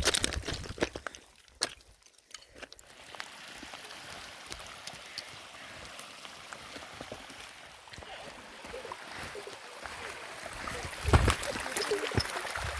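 Steady hiss of water, which begins after a few sharp knocks in the first second and a half and grows slightly louder toward the end. One loud low thump about 11 seconds in.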